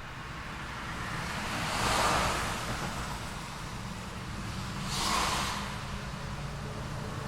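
City road traffic: two vehicles pass close by, one about two seconds in and another about five seconds in, each a rising and falling whoosh of tyres and engine, over a steady low rumble of idling or distant engines.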